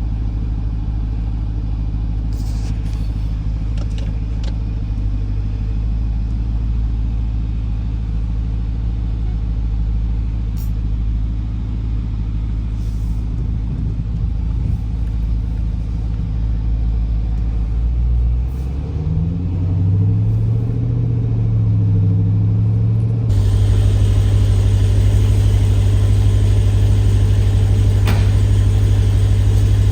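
Car engine and road noise from a moving vehicle: a steady low drone that shifts in pitch a few times around two-thirds of the way through as the car changes speed, then cuts abruptly to a louder, brighter drone.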